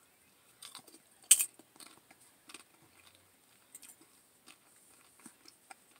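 Close-miked chewing of a mouthful of lentil chili: scattered small crunches and wet mouth clicks, with one sharper click a little over a second in.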